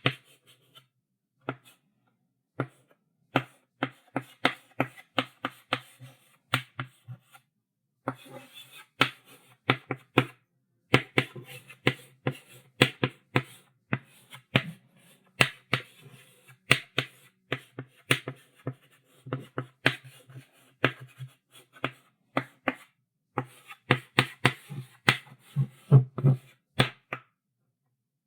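Chalk writing on a blackboard: quick clicking taps and short scratchy strokes in bursts, with brief pauses between runs of writing.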